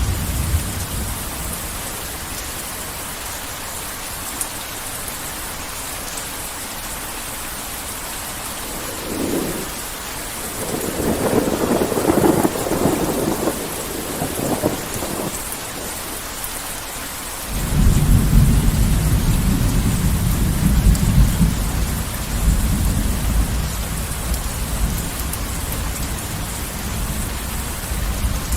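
Steady heavy rain, with rolls of thunder. Midway there is a crackling peal, and about two-thirds of the way in a deep rumble begins suddenly and dies away slowly.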